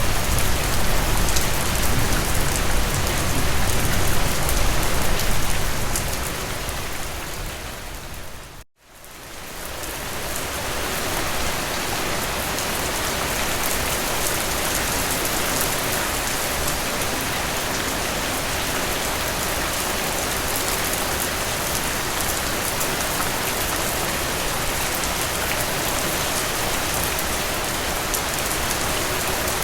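Steady rain falling, with a low rumble under it at first. About six seconds in it fades away to silence near the nine-second mark, then fades back in over the next two seconds and carries on evenly: a joint in a looped recording.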